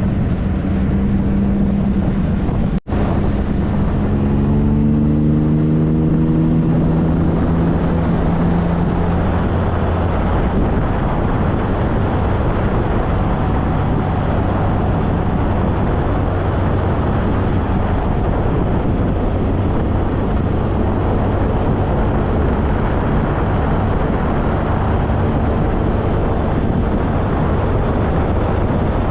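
2013 Triumph Trophy SE's inline three-cylinder engine under way, rising in pitch a few times in the first several seconds as the bike accelerates. After that comes a steady rush of wind and road noise at cruising speed.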